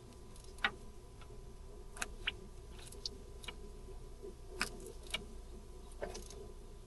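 Scattered light metallic clicks and taps of hand tools and parts being handled during work on a car's steering rack, over a faint steady hum.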